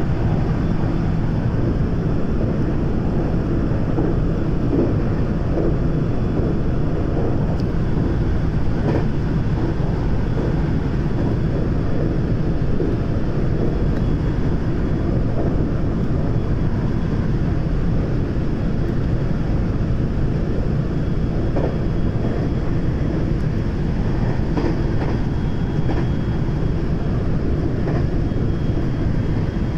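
JR West 521 series electric multiple unit running along the line, heard from inside the passenger car: a steady rumble of wheels on rail, with a few faint clicks now and then.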